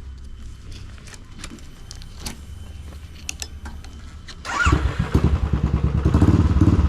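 Motorcycle engine ticking over with a low, pulsing exhaust and a few light clicks. About four and a half seconds in, it suddenly opens up and gets much louder, the exhaust beating strongly as the bike is ridden off. Its silencer is very loud.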